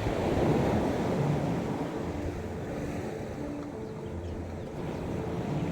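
Sea waves washing onto a sandy beach, one wave swelling about half a second in and then easing off, with wind on the microphone. A faint low hum comes and goes underneath.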